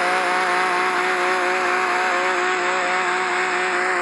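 Video-game car engine running at steady high revs, its pitch holding level, over a steady hiss of road and wind noise.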